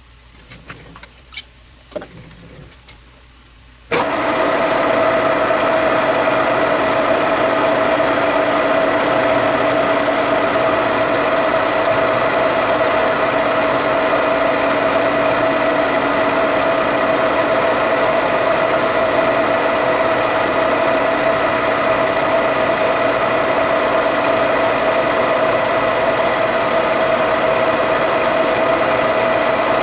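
A few light clicks, then a metal lathe switched on about four seconds in, running steadily with a steady whine for the cut.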